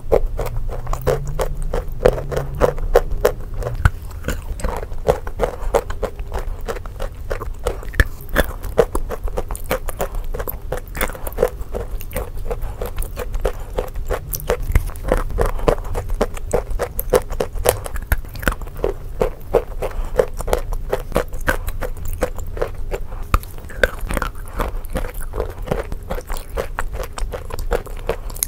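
Close-miked chewing and soft crunching of edible chalk spread with a paste layer: a continuous run of small crackles, crumbling and wet mouth sounds.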